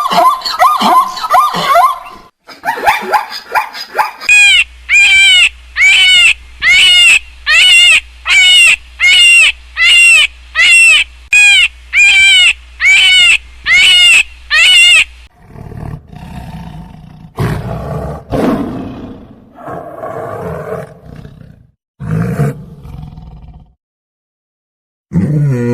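Animal calls: a run of about fifteen short, evenly spaced high calls, then lower, rougher calls with pauses between them.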